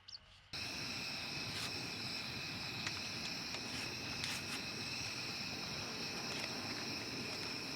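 Insects chirping in a steady outdoor chorus, with a few faint clicks; it cuts in suddenly about half a second in, replacing brief bird chirps.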